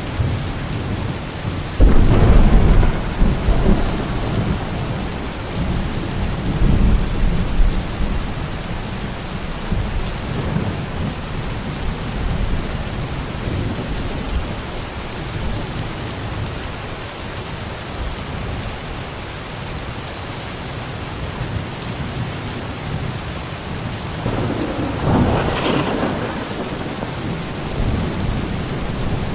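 Steady rain falling, with a sudden loud clap of thunder about two seconds in that rumbles away over the next several seconds, and a second, weaker roll of thunder near the end.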